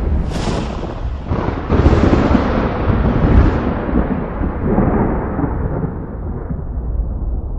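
Thunder from nearby lightning: a sharp crack about a third of a second in, a second crack near two seconds, then a long rolling rumble that slowly fades.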